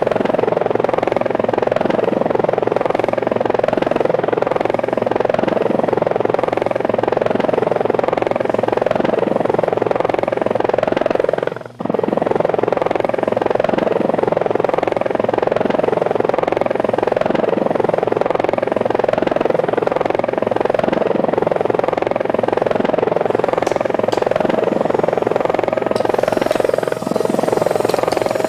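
Small remote-controlled helicopter's electric motors and rotors running with a steady whirring hum, dropping out for a moment about twelve seconds in.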